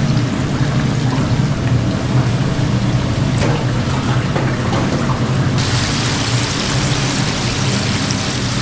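Food sizzling as it cooks on a street-food stall, over a steady low hum. The sizzle turns suddenly louder and brighter about five and a half seconds in.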